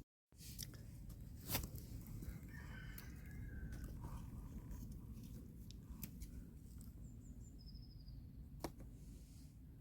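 Outdoor ambience with a low steady rumble, a few sharp snaps or clicks, a distant wavering bird call and a couple of short high chirps near the end.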